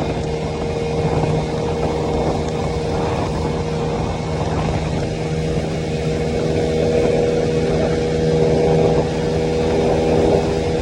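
50cc Chinese scooter engine on a homemade motorized bike running at a steady cruising pace while riding, its note holding even and getting slightly louder in the second half.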